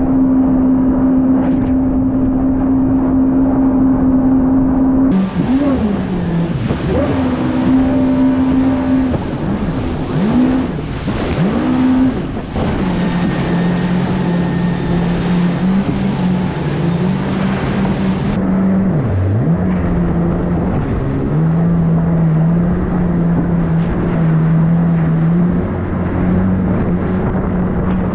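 Jet ski engine running at a steady throttle, then revving down and up several times in quick swoops, then settling at a lower steady pitch with one brief drop and recovery, over wind and water noise.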